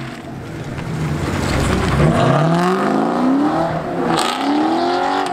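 Car engine revving hard several times, its pitch climbing and dropping with each rev.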